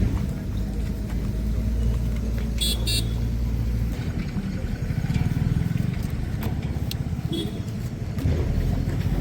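A motor vehicle's engine running, a steady low rumble that turns into an even low throb about four seconds in, with a short high-pitched sound just before the three-second mark.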